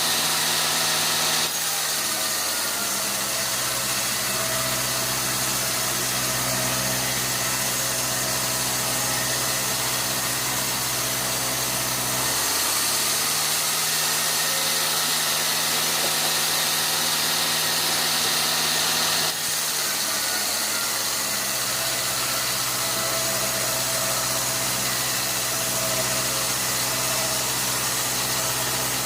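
Engine-driven sawmill machinery running steadily with a constant high hiss. Its engine note drops lower about a second and a half in, climbs back around twelve seconds, and drops again near nineteen seconds.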